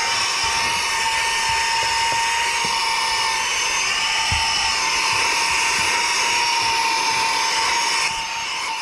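Saker 3-in-1 cordless mini vacuum with brushless motor running on its lowest power setting: a steady high whine over rushing air as it vacuums trunk carpet. It gets a little quieter near the end.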